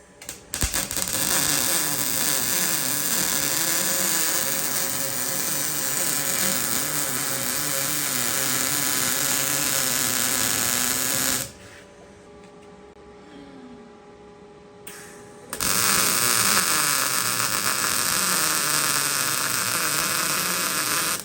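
MIG welding arc from an Everlast Storm 215C running 0.030 wire with 75/25 gas on 1/8 inch steel, a steady frying crackle and buzz of short-circuit transfer. Two beads are run, one of about eleven seconds and then a shorter one of about six, with a steady hum between them.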